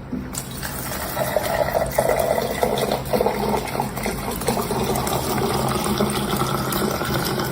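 Water running: a steady, even noise of flowing water.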